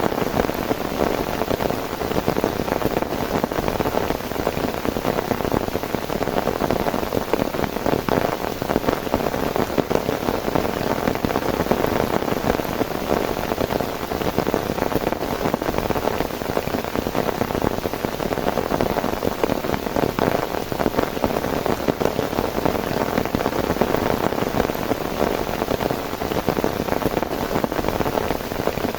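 Heavy rain falling steadily, a dense even patter of drops with no letup.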